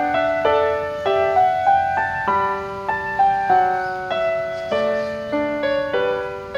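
Gentle background piano music: a slow melody of single sustained notes over simple chords, a new note about every half second.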